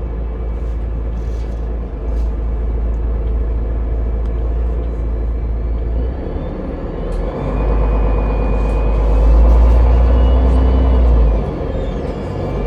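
Cabin noise of a city public-transport vehicle under way: a steady low rumble that grows louder about seven seconds in, with a faint whine rising and falling in pitch.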